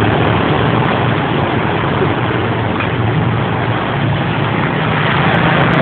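Motorcycle engine running steadily, a low hum under a constant rushing hiss.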